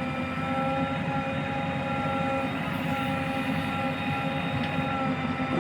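Heavy diesel engine running steadily at a constant speed, with a steady whine over the engine's rumble.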